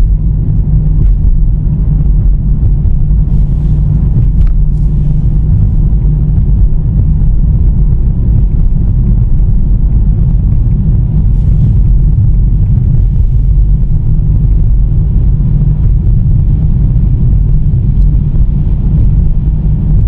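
Steady low road rumble of a car being driven on an open road, heard inside the cabin: tyre and engine drone with no change in speed.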